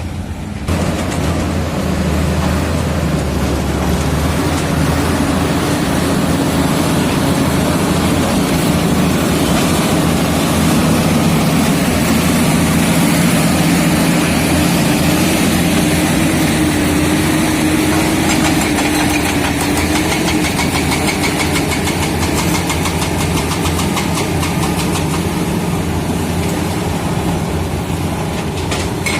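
Komatsu D85E-SS bulldozer's diesel engine working, loud and steady; it picks up about a second in and holds a steady drone, easing slightly near the end.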